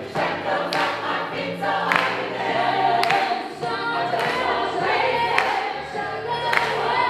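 Gospel choir singing sustained chords together, with a sharp beat struck about once a second.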